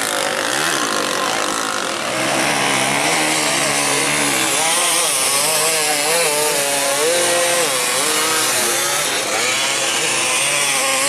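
Dirt bike engine revving hard, its pitch rising and falling over and over as the throttle is worked.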